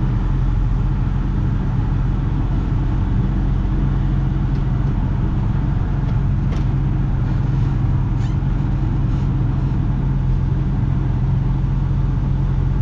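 Semi truck's diesel engine running steadily at a constant low speed.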